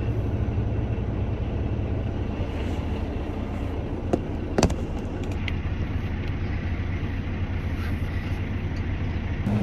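Semi truck's diesel engine running steadily, heard inside the cab while driving, with road noise over it. A couple of sharp clicks come about four and a half seconds in.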